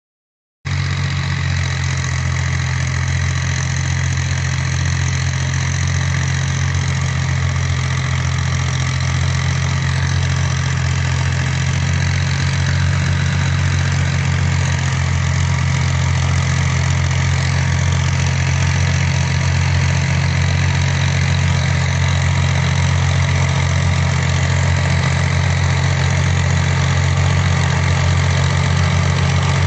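Fiat 480 tractor's diesel engine running steadily at an even speed, cutting in suddenly about half a second in.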